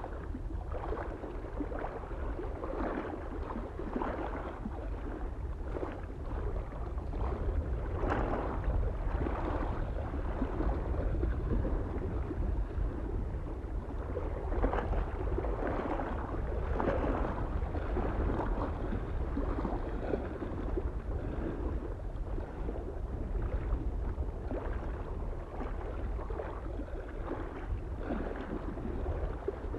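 Small waves lapping irregularly at a lake shore, in soft splashes every second or two, over a steady low wind rumble.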